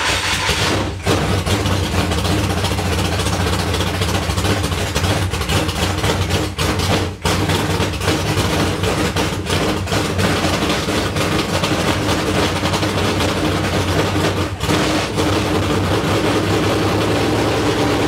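Dirt late model race car's V8 engine running loud and steady on its first start of the season, dipping briefly a few times.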